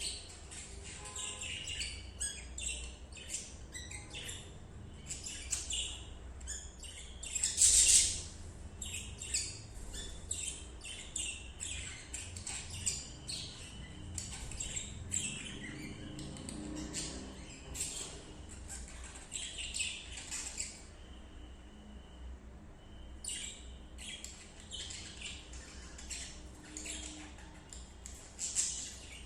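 Budgerigars chirping: a rapid run of short, high chirps, with a louder burst about eight seconds in and a brief lull later on.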